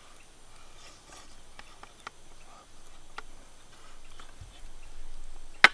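Someone eating stew: a spoon clinking now and then against the dish, with soft chewing, and one louder sharp clack near the end.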